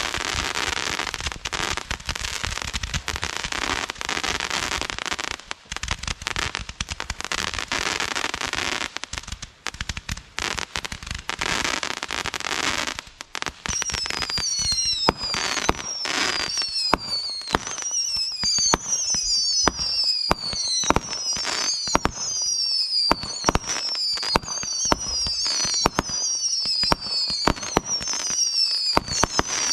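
Consumer fireworks going off: a dense crackling barrage of pops for about the first half, then a run of high whistles, each falling in pitch, about one a second, among sharp bangs.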